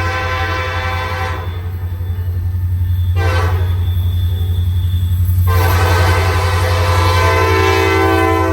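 Diesel locomotive's multi-tone air horn sounding: a long blast that breaks off about a second and a half in, a brief blast around three seconds, then another long blast from about five and a half seconds on, over the steady low rumble of the train.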